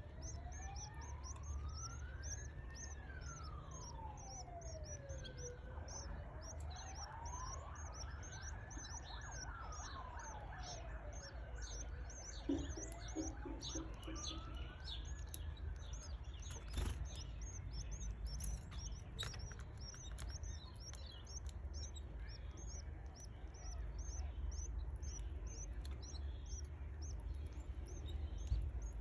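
Canary chicks cheeping in a fast, continuous run of high-pitched calls. A siren wails slowly up and down behind them and dies away about halfway through.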